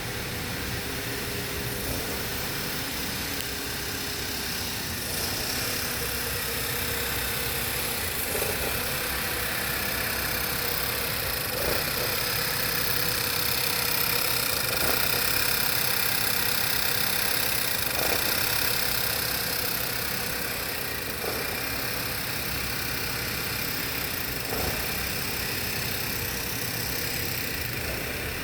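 2012 Volkswagen CC's 2.0-litre turbocharged four-cylinder engine running at a steady idle, a little louder through the middle stretch.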